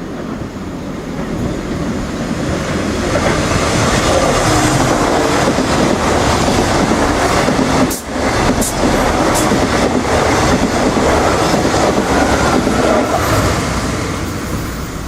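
Irish Rail commuter train running through the station: wheel-and-rail noise that builds over the first few seconds, stays loud for about ten seconds with a few sharp clicks about eight seconds in, and begins to fade near the end.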